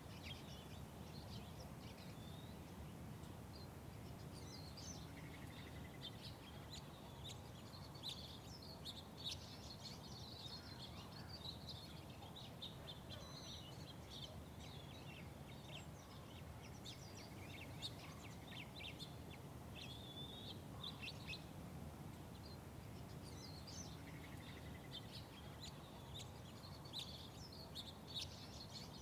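Small birds chirping and twittering in many short calls throughout, over a steady low rumble of background city noise.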